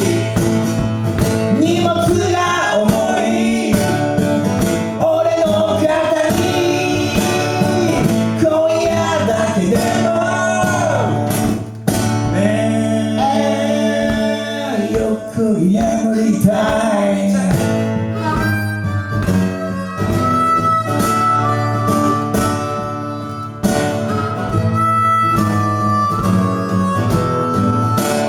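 Harmonica and acoustic guitar playing an instrumental break in a live folk-blues song, the harmonica bending notes at first and then holding long, wavering high notes.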